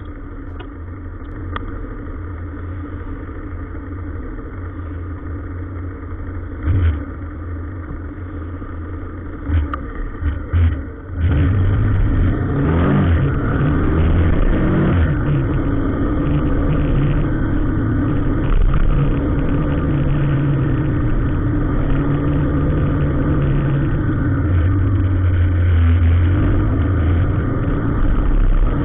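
Motor vehicle engine running in slow traffic, with a few short knocks before it grows louder about eleven seconds in and stays loud, with some revving.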